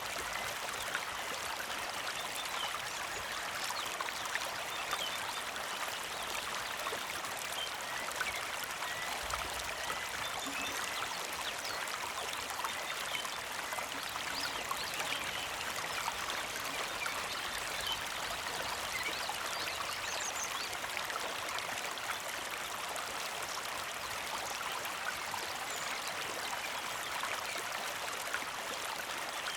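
Small creek flowing and trickling steadily over rocks, with a few faint short bird chirps here and there.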